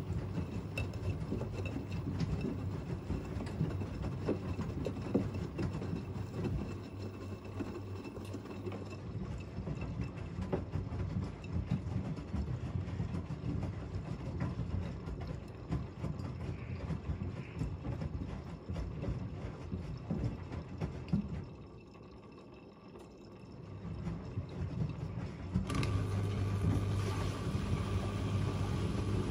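Front-loading washing machines in a wash cycle: the drum turns and the water and laundry churn unevenly. After a brief quieter lull, a steady motor hum starts suddenly near the end.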